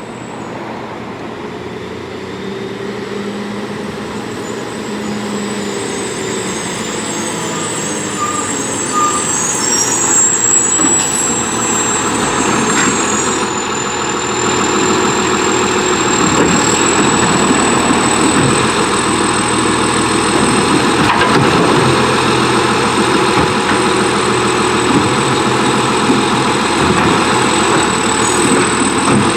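Condor McNeilus front-loader garbage truck's diesel engine running, growing louder over the first half, with a thin high whine rising slowly partway through.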